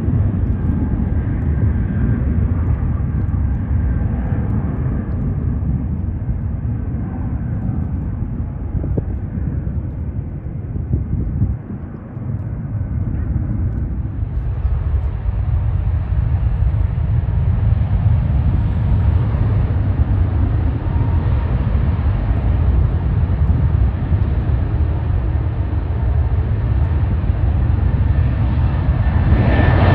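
Jet airliner engines rumbling steadily with a faint whine, growing louder with a stronger high whine near the end.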